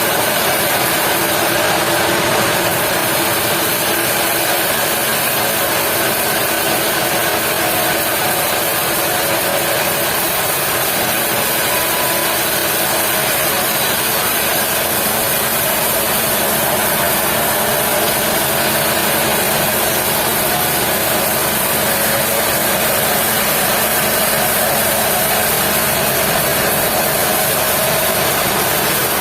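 Sawmill machinery running steadily and loudly, a continuous mechanical drone and hiss with no break or change.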